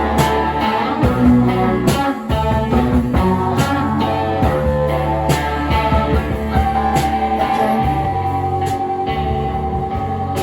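Live rock band playing an instrumental passage with electric guitars over bass, and drum hits about every second and a half. A long high guitar note is held from about two-thirds of the way in.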